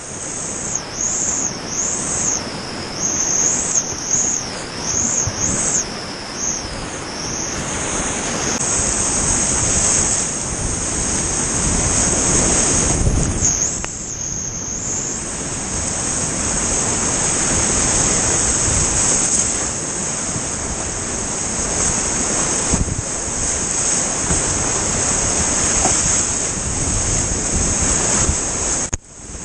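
Whitewater of a steep creek rushing and splashing close to the microphone, a loud, steady wash of water noise that dips briefly near the end.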